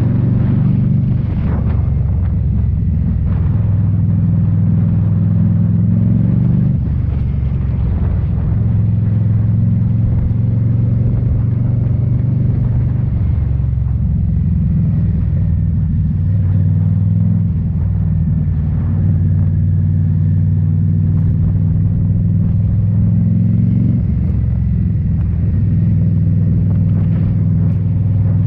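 A 2018 Indian Scout Bobber's V-twin engine, breathing through Rinehart slip-on mufflers, running under way with a loud, deep exhaust note. The pitch steps up and down several times, with the throttle and gear changes.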